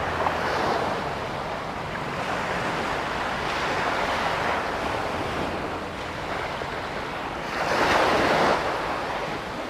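Sea surf washing onto a sandy beach: a steady rush of breaking waves that swells twice, the louder surge about eight seconds in.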